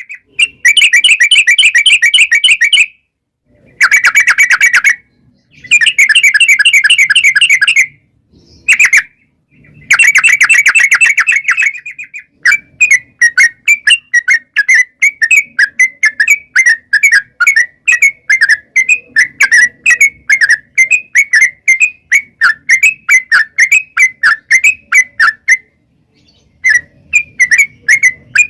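Yellow-vented bulbul (trucukan) song: loud, dense chattering trills in several bursts over the first twelve seconds or so, then a long run of quick repeated notes that breaks off briefly near the end and resumes.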